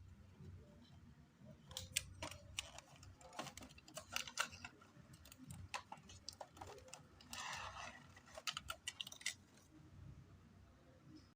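Small hard plastic clicks and rattles from a wireless earbud charging case and earbuds being handled, with quick runs of clicks and a brief rustling rattle about seven seconds in.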